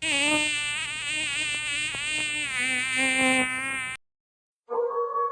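A buzzy, nasal pitched sound wavering through a short tune of held and gliding notes for about four seconds, then cutting off abruptly. A steady held tone begins near the end.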